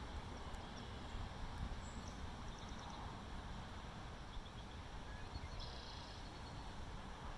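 A few faint, short, high bird chirps over a steady low rumble.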